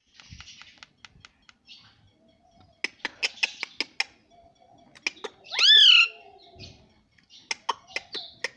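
Pet ringneck parrot making sharp clicks and short chirps in quick runs, with one loud call about halfway through that rises then falls in pitch.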